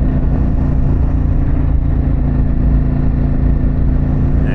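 Harley-Davidson Pan America's Revolution Max 1250 V-twin running at a steady engine speed through a Vance & Hines exhaust while the bike is ridden, with a constant low rumble underneath.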